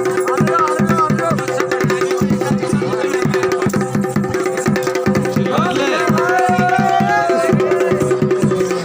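Uttarakhand folk dance music: fast, steady drumming under a continuous held drone, with a wavering melody line rising over it in the second half.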